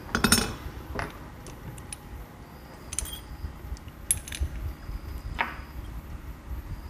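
Metal engine parts clinking and knocking together while motorcycle gearbox gears and shafts are handled: a quick cluster of clinks just after the start, then single sharp clicks every second or so.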